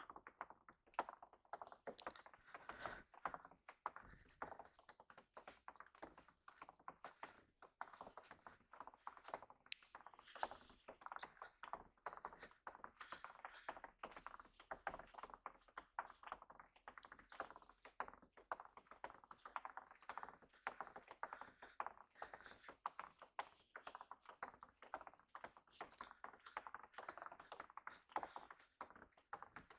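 Falling snow ticking and pattering faintly on surfaces: a dense, irregular spatter of small light taps with no steady rhythm.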